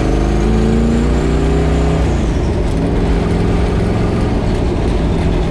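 Twin-turbo Ford 351 small-block V8 pulling under load, heard from inside the car: the engine note climbs for about two seconds, then drops and runs on steadily. A faint high whine rises and falls with the climb.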